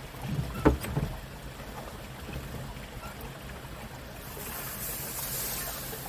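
A fishing boat's engine running with a steady low hum. A sharp knock sounds just under a second in, with smaller knocks around it, and a steady high hiss comes in at about four seconds.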